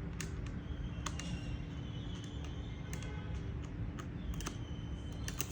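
Irregular light clicks and taps from handling screws and plastic laptop parts with a screwdriver during reassembly, over a steady low hum.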